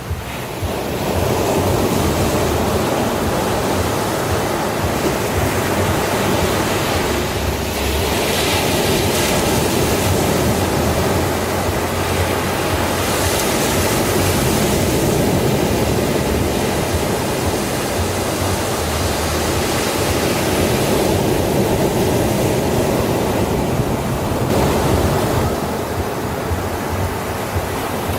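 Sea waves washing onto a beach: a continuous surf wash that swells and eases slowly, with a brighter hiss as waves break about nine and thirteen seconds in.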